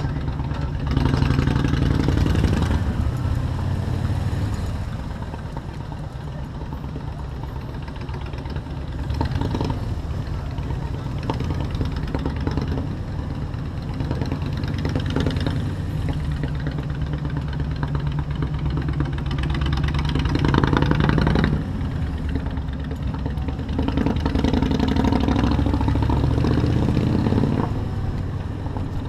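Motorcycle engine running through city traffic, revving up and rising in pitch as it accelerates several times, easing back to a lower, quieter run between the pulls.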